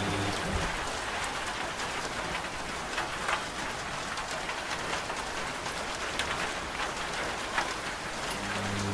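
Steady rain falling, with scattered sharp drop ticks. A washing machine's low, steady hum cuts off just after the start and comes back near the end.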